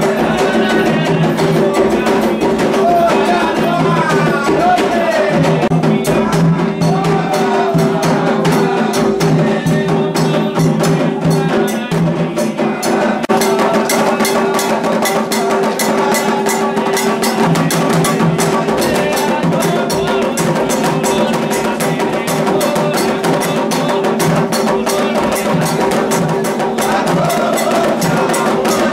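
Candomblé ritual music: atabaque hand drums and a struck bell playing a dense, steady rhythm, with voices singing over them.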